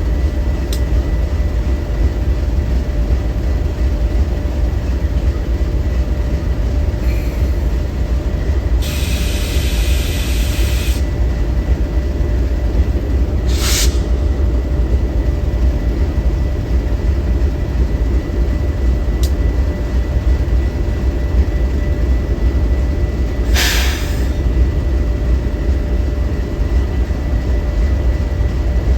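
Train rolling past with a steady, loud low rumble of wheels on rail. A hissing burst lasts about two seconds, starting about nine seconds in, and two brief sharp sounds come around fourteen and twenty-four seconds in.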